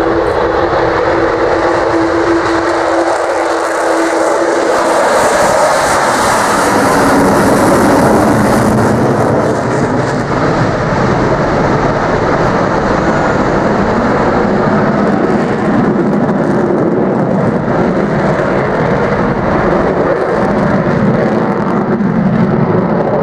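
Avro Vulcan XH558's four Rolls-Royce Bristol Olympus 202 turbojets, loud as the bomber flies past. A steady held tone fades out about five seconds in, and the rushing jet noise is brightest from about five to nine seconds in.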